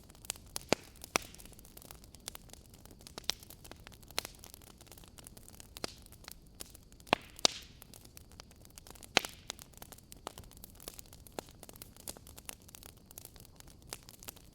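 Wood fire crackling: irregular sharp pops and snaps over a soft hiss, with a few louder pops about a second in and again around seven and nine seconds.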